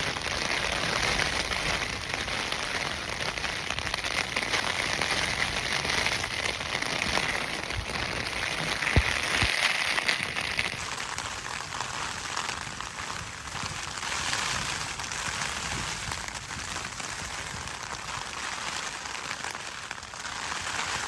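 Heavy rain from a storm falling steadily, a dense patter with no pauses. About halfway through the sound shifts abruptly to a slightly different rain texture.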